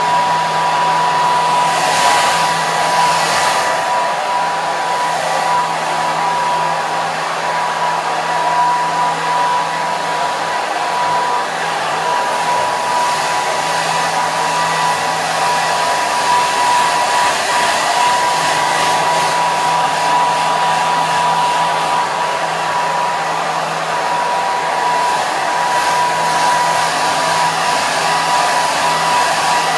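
Handheld hair dryer running steadily, a continuous rush of blown air with a high motor whine and a low hum under it. A little more high hiss comes in briefly about two seconds in.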